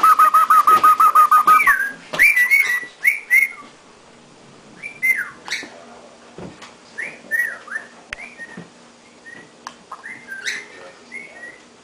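Cockatiel calling: for about the first two seconds a rapid, even run of about ten identical notes a second, then a string of short whistled chirps that rise and fall in pitch, with gaps between them.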